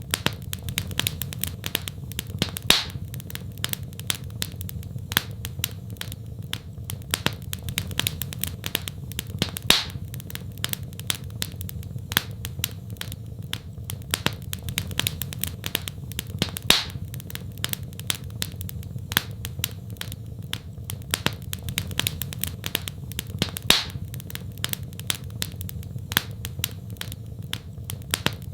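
Wood fire crackling in a fireplace: a dense, irregular run of small snaps and pops over a steady low rumble, with a louder pop about every seven seconds.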